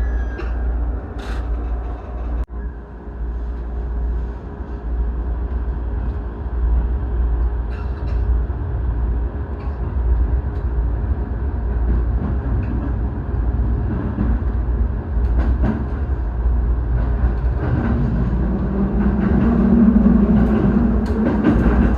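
Electric commuter train running on the rails: a steady low rumble with occasional clicks from the wheels and track. A low hum grows louder near the end.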